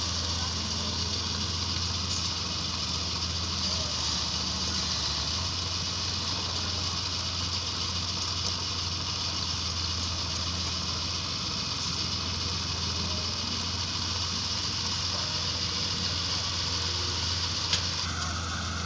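Engine of heavy earthmoving machinery running steadily, with a low drone under a constant hiss. A single sharp click comes near the end.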